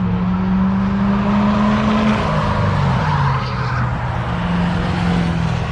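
A drag-racing vehicle's engine running hard at high revs. Its pitch holds steady, drops about two seconds in, then settles lower and climbs a little again near the end.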